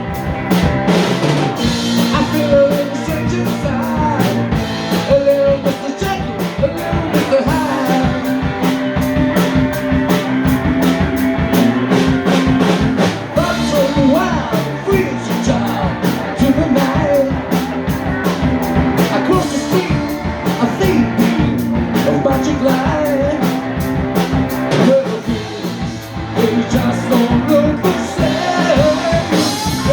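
Live rock band playing: a steady, driving drum beat with bass, guitar and keyboards, and a wavering melody line over held low notes.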